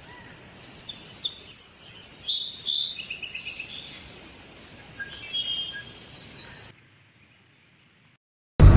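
Wild birds chirping and calling in short, high notes over a faint outdoor hiss, busiest in the first three seconds and again briefly about five seconds in. The outdoor sound cuts off suddenly, and loud music starts right at the end.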